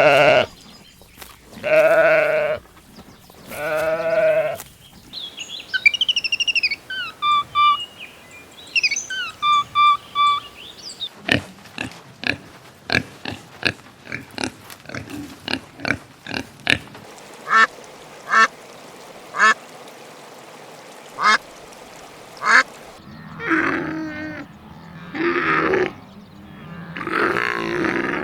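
A series of animal calls: three drawn-out calls, then a run of bird-like chirps and whistles, a long stretch of sharp clicks, and three more drawn-out calls near the end.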